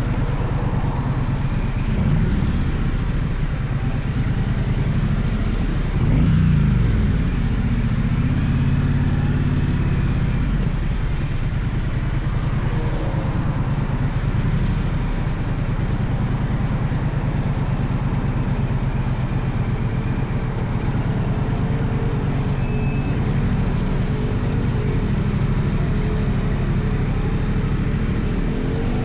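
Gaokin GK1200 motorcycle engine running steadily on the move, with a brief rise in revs about six seconds in.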